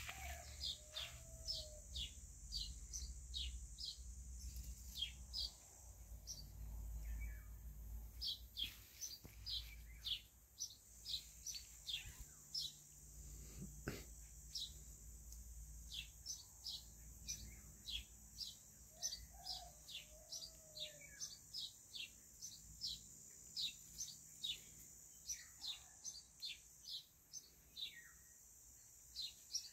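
Small birds chirping: a long run of short, high chirps that each sweep downward, one or two a second.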